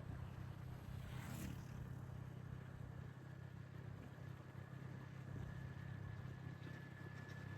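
Motorbike engine running steadily while riding, under a haze of wind and road noise. A thin, steady high whine comes in near the end.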